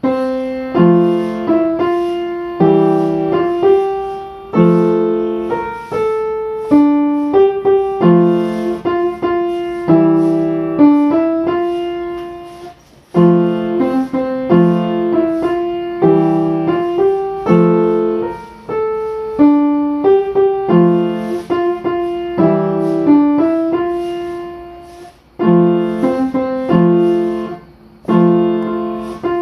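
Solo piano music: a melody of struck notes over lower chords, each note dying away, with a few brief pauses.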